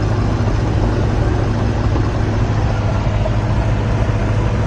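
Steady engine and road noise of a 1977 Toyota camper truck running, a continuous low drone with no change in pitch.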